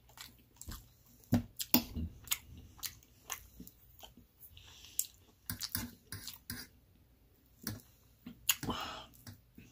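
Close-up chewing and lip smacking while eating meatloaf, a string of short wet clicks, with the fork now and then clinking on the metal plate.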